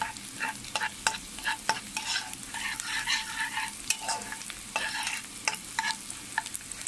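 Chopped onion and garlic sizzling in hot oil and butter in a kadhai while a wooden spoon stirs them, with frequent irregular scrapes and taps of the spoon against the pan.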